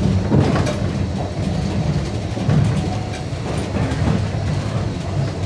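Narrow-gauge (762 mm) Yokkaichi Asunarou Railway train running, a steady low rumble with scattered clicks and knocks from the wheels on the rails.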